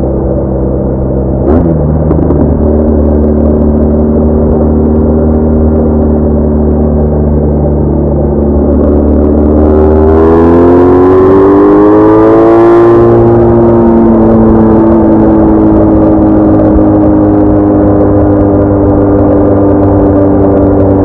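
BMW R1200R flat-twin motorcycle engine running under way, with a gear change shortly after the start. Midway the pitch climbs smoothly over several seconds as the bike accelerates, then holds steady until it drops again with another gear change at the very end.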